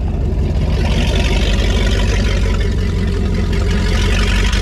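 2002 Donzi Classic 22's sterndrive engine running steadily during an engine trial. A hiss higher up grows louder about a second in.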